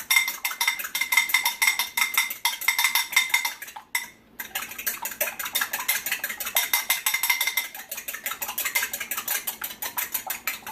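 Wire whisk beating eggs in a bowl: fast, rhythmic metal clicking against the bowl, with a short break about four seconds in.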